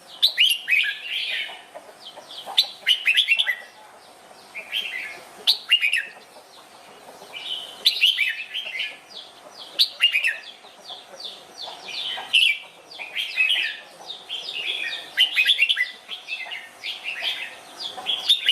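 Red-whiskered bulbul singing: short, quick phrases of rising and falling notes, repeated one after another with brief gaps of about a second.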